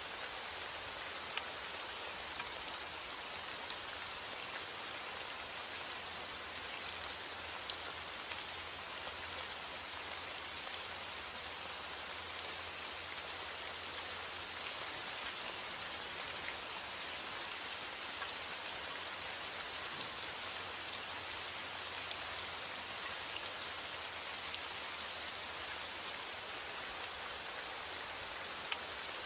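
Heavy rain falling steadily, a continuous hiss of rain on surfaces with the patter of individual drops.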